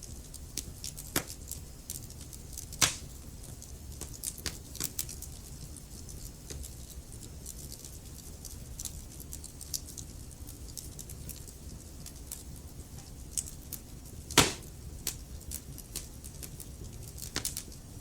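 Wood fire burning in a fireplace: a steady low rumble of flames with irregular crackles and sharp pops, the loudest pop about 14 seconds in.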